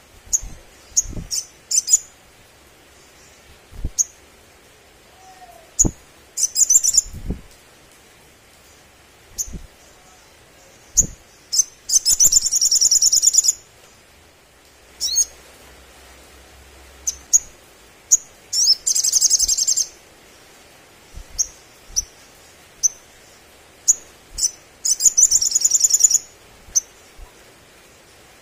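Olive-backed sunbird calling: sharp high single chirps every second or so, broken by four fast, buzzy trills of about a second to a second and a half each. Soft low knocks sound between the calls.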